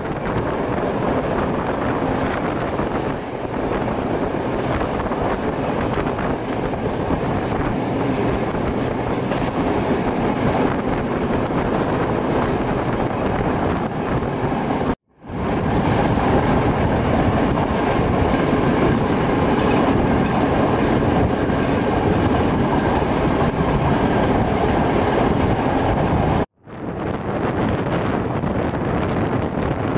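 A moving passenger train heard from inside the carriage: a steady rumble and rattle of the wheels running on the track. The sound cuts out abruptly for a moment about halfway through and again near the end.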